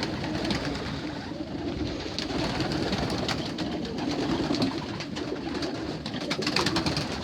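A loft full of young racing pigeons cooing in a continuous low murmur, with scattered light clicks and scuffs from the birds moving about.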